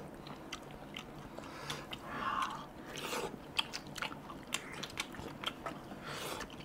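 People chewing and smacking their lips as they eat chicken off the bone with their hands: a run of short, irregular wet mouth clicks.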